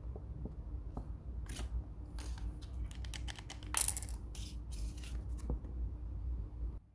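Close handling noise: a run of short rustling, scraping strokes, the loudest about four seconds in, over a steady low hum that drops away just before the end.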